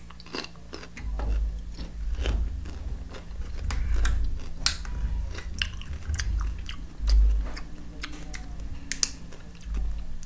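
Raw celery stick being chewed with the mouth close to the microphone: crisp, irregular crunches over duller chewing thuds.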